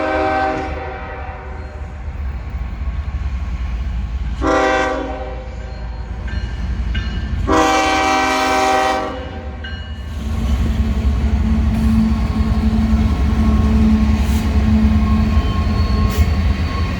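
Norfolk Southern freight locomotive's air horn sounding for a road crossing: a blast that ends just after the start, a short blast about four and a half seconds in, and a longer one around eight seconds. From about ten seconds the train's rumble grows louder and steadier as it passes.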